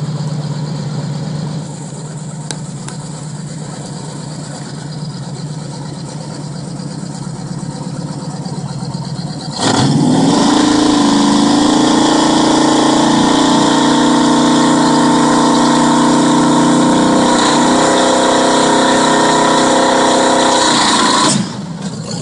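A drag-race Chevy Nova's engine idling with an uneven, lumpy beat. About ten seconds in it is revved hard and held at high, steady revs for about eleven seconds in a burnout, then drops back off near the end.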